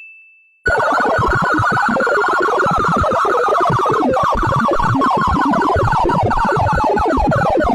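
Synthesized sonification of a mathematical function: a steady high electronic tone fades out, then about half a second in, a loud dense stream of rapid falling electronic sweeps begins, many in each second.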